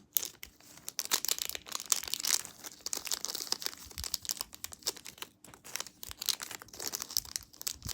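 Plastic packaging crinkling and tearing in the hands, a dense run of irregular crackles as the small toy packets are handled and opened.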